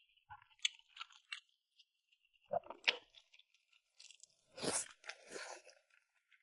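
Close-miked eating sounds: crunching and chewing, with scattered small clicks and two louder bites, the loudest about four and a half seconds in.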